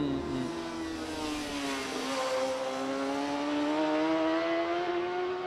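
Honda racing motorcycle engine at high revs, one bike alone. Its note drops over the first two seconds as it leans through a corner, then climbs slowly and steadily as it accelerates away.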